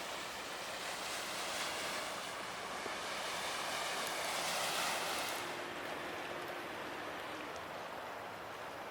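Sea waves washing against the shore: a steady hiss of water that swells to a surge about four to five seconds in, then ebbs.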